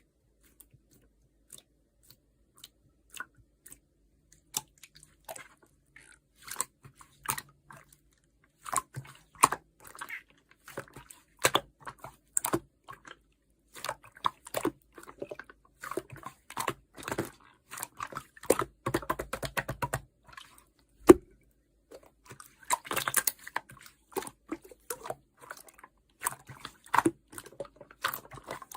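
Yellow clear slime being squeezed and pressed by hand, making wet, sticky clicks and pops. The clicks come sparsely at first and grow dense and irregular from about eight seconds in, with one sharper, louder pop a little after twenty seconds.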